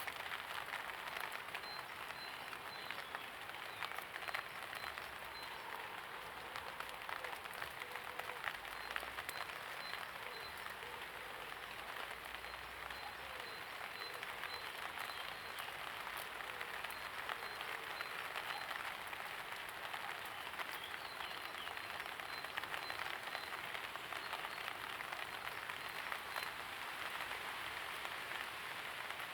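Steady light rain falling, an even hiss full of many small individual drop impacts.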